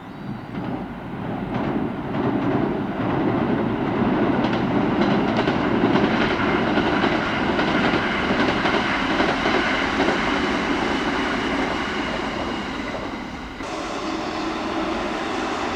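Kintetsu electric train running past, the noise building over the first few seconds to a steady rumble of wheels on rail with clatter over the rail joints. The sound changes suddenly about 13 seconds in, losing its upper hiss.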